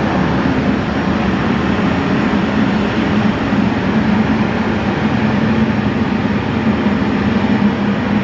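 Aircraft engines running steadily: an even rumble with a constant low hum, neither rising nor falling.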